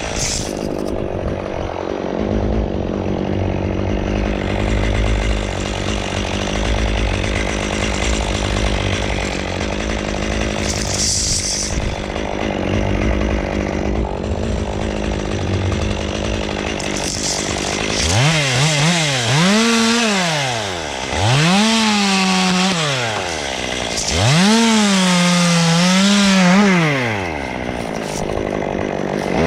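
Two-stroke chainsaw held at a steady high speed through a long cut. From about 18 seconds in it is revved up and down several times.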